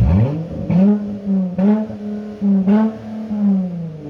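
Exhaust of a 2019 Dodge Challenger's 3.6 Pentastar V6 being revved through a single dual-in, dual-out Flowmaster 40 Series muffler, with the resonators and factory mufflers deleted and 4-inch turndown tips. The revs shoot up at once, are held high with about four quick throttle stabs, and drop back near the end.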